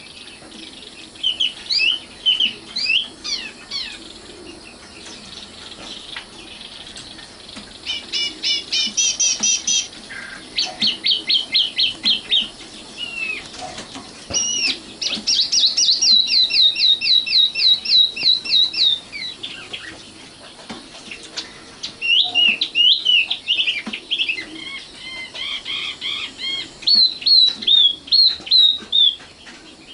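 Common nightingale singing: a string of separate phrases, each a fast series of repeated high notes, with short pauses between them.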